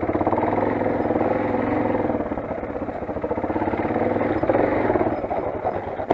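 Single-cylinder four-stroke engine of a Motoland XR 250 dirt bike running steadily with a rapid even firing beat. It swells slightly about four and a half seconds in, then stops abruptly at the end.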